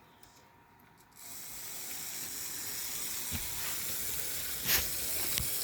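HO-scale model train running on its track: a steady hissy whir that starts suddenly about a second in and slowly grows louder, with a few sharp clicks.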